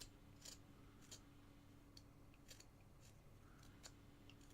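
Faint, repeated small cuts of a carving knife paring basswood, a short crisp scrape about every half second or so, over a low steady hum.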